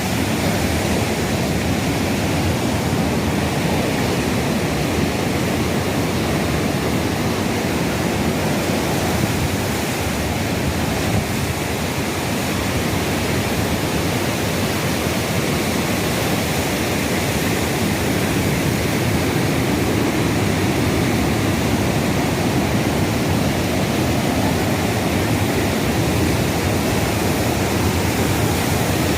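Steady rush of wind over the microphone of a moving motorcycle, an even, unbroken noise with no clear engine note.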